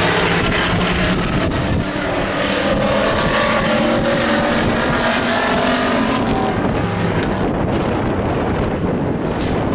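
Several stock race trucks' engines running hard around the track, their pitches rising and falling as they pass. Later on, wind buffets the microphone.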